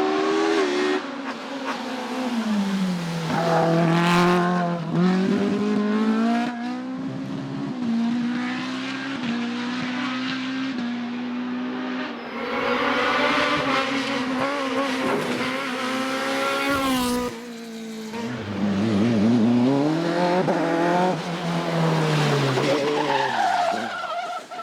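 Racing car engine under hard acceleration. Its pitch drops twice, a few seconds in and again about three-quarters of the way through, then climbs back each time as it pulls through the gears.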